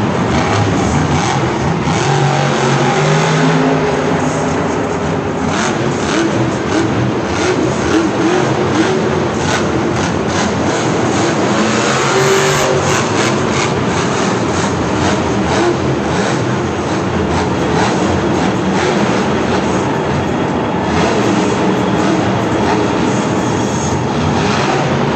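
Monster truck engines running loud and revving, a dense continuous noise whose engine pitch keeps shifting up and down.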